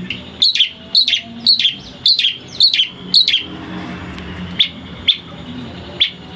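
Cendet (long-tailed shrike) singing: a run of six sharp, falling notes at about two a second, then three short single notes spaced farther apart.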